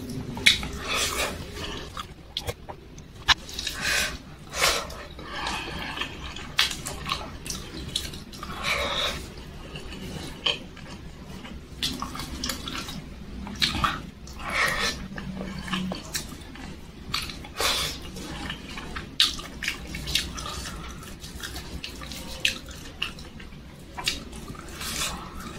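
Close-up eating sounds of a person chewing soft, wet food with her mouth open: moist smacking and short, irregular mouth clicks.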